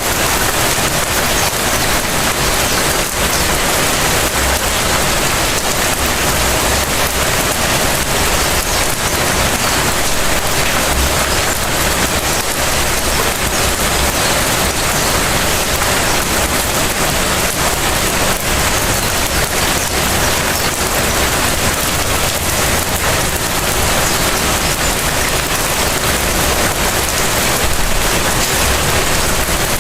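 Light rain falling steadily: an even hiss with a dense patter of individual drops.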